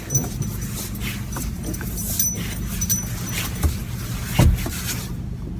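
Car engine running steadily with a low rumble, with a few light clicks and a knock about four and a half seconds in.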